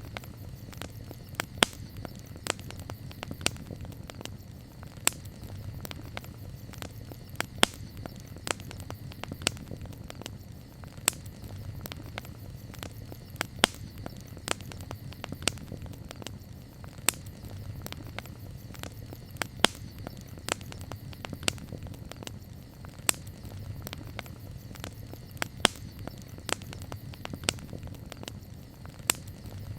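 Campfire crackling, with irregular sharp pops, several a second at times, over a low steady rumble.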